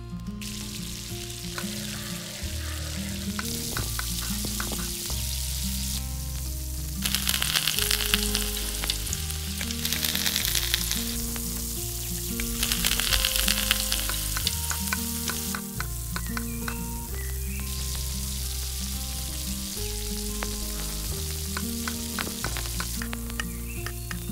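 Food frying in hot oil in a miniature pan: a steady sizzle that swells louder a few times, over soft background music.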